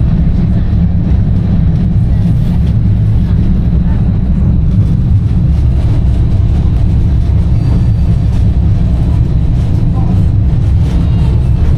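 Steady low rumble heard inside an Inekon streetcar running between stops.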